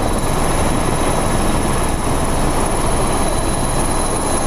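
Police helicopter's rotor and engine running, a loud steady drone.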